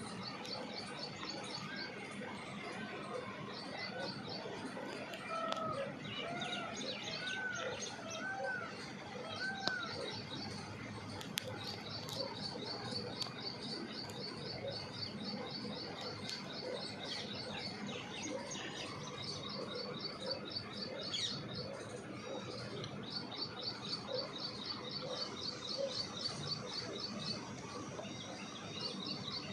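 Small birds chirping outdoors: runs of rapid, high-pitched repeated notes go on throughout, and a few short arching calls come about a quarter of the way in.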